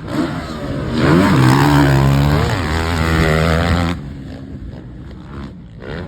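Dirt bike engine on a motocross track, revving up and holding high revs, then dropping in pitch; the loud engine sound cuts off sharply about four seconds in, leaving a quieter engine sound.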